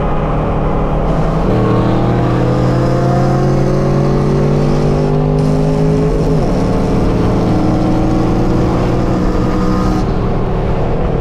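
Straight-piped 5th-gen Chevrolet Camaro SS V8 exhaust under acceleration. The note climbs in pitch for several seconds, drops at an upshift about six seconds in, then pulls on in the next gear.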